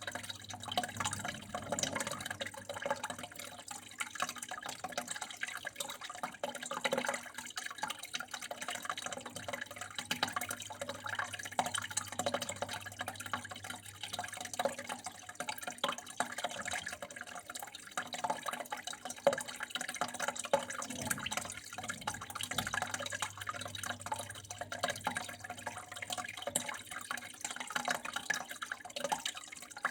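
Water flowing steadily with a constant patter of small drips and splashes, over a low steady hum.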